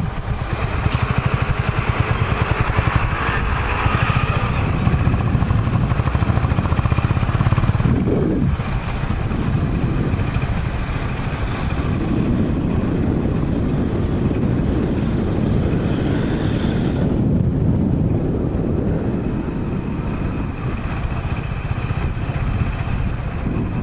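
Honda GB350's air-cooled single-cylinder engine running as the motorcycle is ridden along at low speed.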